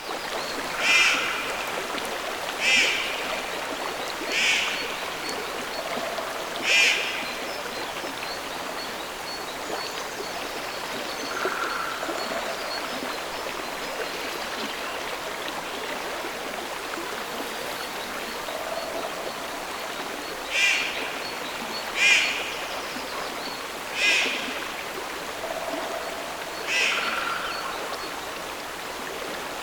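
Nature soundscape: a steady wash of running water with an animal's short calls on top, four of them in the first several seconds and a run of them again near the end, plus fainter, lower calls in between.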